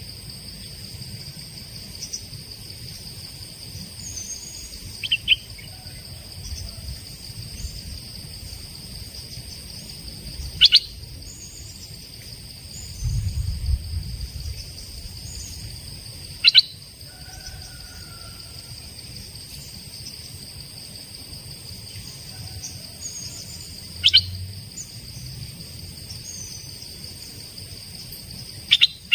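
A caged decoy songbird gives short, sharp calls about every six seconds, five in all, answered by small high chirps, over a steady high insect drone. The calls serve to draw a wild bird of the same kind.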